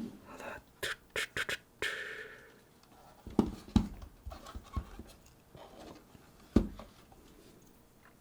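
Small electronic parts and tools being handled on a workbench. A quick run of sharp clicks leads into a short scratchy scrape, followed by a few dull knocks, the loudest near the end.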